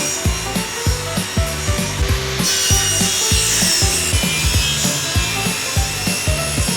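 A saw cutting through a wooden board, the rasping noise growing louder about two and a half seconds in, over background music with a steady beat.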